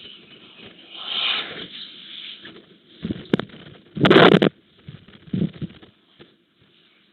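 Elephants feeding on grass: irregular rustling, tearing and crackling with soft thuds and a breathy hiss, the loudest burst about four seconds in.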